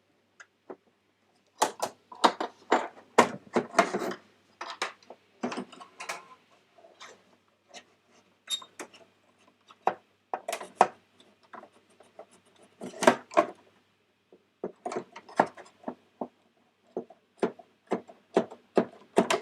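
Irregular clicks, knocks and light rattles of hardware being handled, in clusters with short pauses, as the graphics card of a Mac Pro A1289 tower is taken out and a working one fitted.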